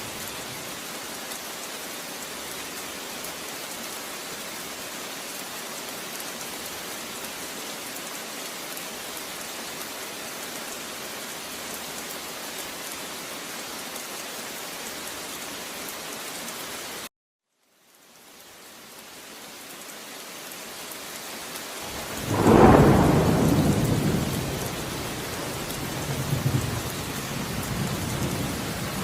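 Steady rain hiss that cuts out abruptly about seventeen seconds in, leaving a moment of dead silence. The rain then fades back in, and a loud rumble of thunder follows a few seconds later, trailing off into smaller rumbles.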